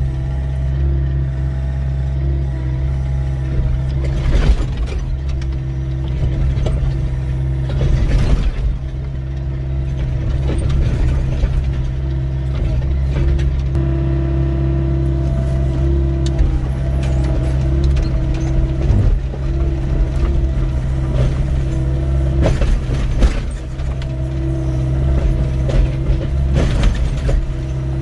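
Doosan 55W wheeled excavator working: its diesel engine running steadily under load with the hydraulics whining, while the bucket clanks and scrapes through rocky ground, with sharp knocks about 4 s, 8 s, 22 s and 26 s in.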